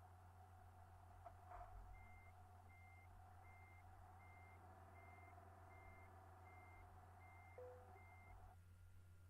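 Truck reversing alarm beeping faintly, nine short evenly spaced beeps a little under a second apart, over a low steady hum.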